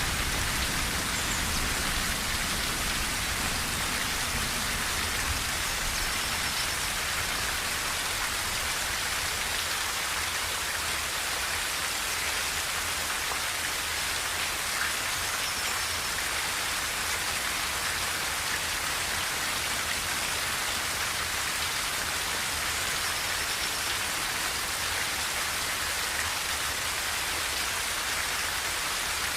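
Rain falling steadily on a tin roof: an even patter of drops with no let-up, and a faint low rumble underneath.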